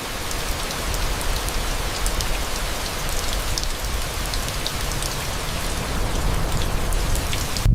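Steady heavy rain falling, an even hiss with individual drops ticking sharply through it.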